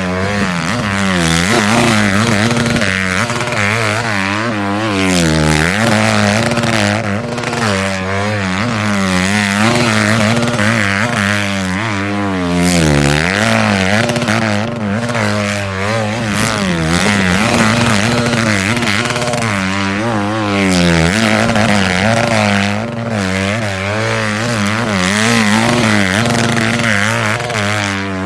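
Honda CRF150 dirt bike's single-cylinder four-stroke engine held wide open on the rev limiter as the bike rides a figure 8. The engine note stays loud and its pitch swings up and down about once a second as the bike circles past.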